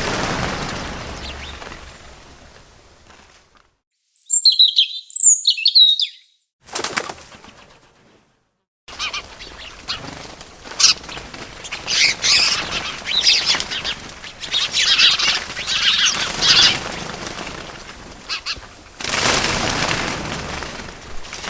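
A short burst of high, falling bird chirps about four seconds in, between stretches of bird wings flapping, with a whoosh of wingbeats near the end.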